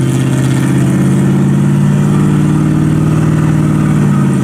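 A vehicle engine running steadily at an even low speed, with a deep, pulsing exhaust note.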